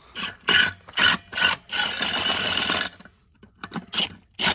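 Impact wrench running lug nuts onto a truck wheel: a few short bursts, then one longer burst of about a second, and two more short bursts near the end.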